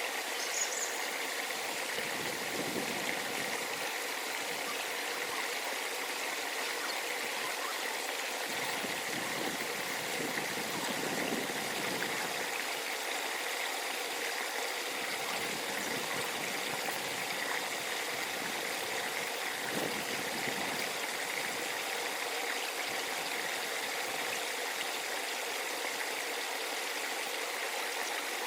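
A stream flowing, a steady rush and trickle of water. A short high chirp sounds just after the start.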